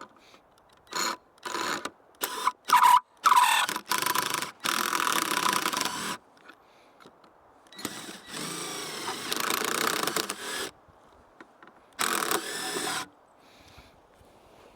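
Cordless power drill running in a string of short bursts, then two longer runs with the motor speeding up and slowing down, driving long 1/2-inch stainless bolts in.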